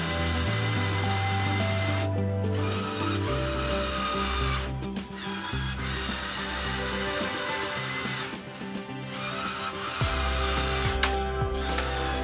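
Electric motors of a LEGO Technic 42100 Liebherr R9800 excavator whirring as the arm moves through its automatic calibration. The whir stops briefly and starts again three times. Background music plays underneath.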